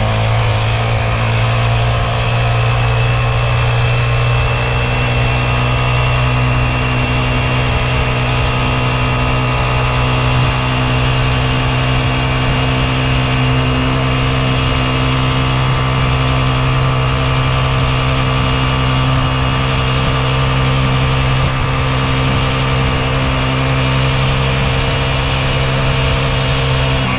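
Small youth dirt bike's engine running at a steady, nearly constant speed while being ridden.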